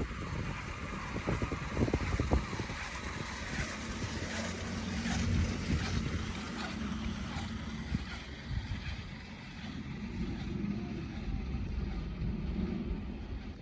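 Wind buffeting the microphone: a steady low rumble with a hiss over it, and a few light ticks in the first couple of seconds.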